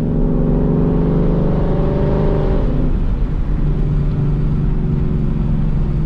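2018 Mustang GT's 5.0 L V8 running through a Borla ATAK axle-back exhaust with an X-pipe resonator delete, a steady deep exhaust note under way. A little under three seconds in the note breaks and drops, then holds steady at a lower pitch.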